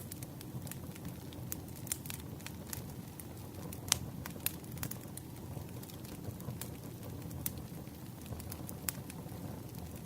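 Campfire crackling: a steady low hiss and rumble of burning wood with irregular sharp pops and snaps, one louder pop about four seconds in.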